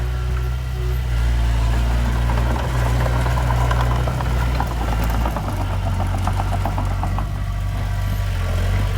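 Heavy-equipment diesel engine running steadily, its pitch shifting slightly about five seconds in, with a fast clicking clatter through the middle.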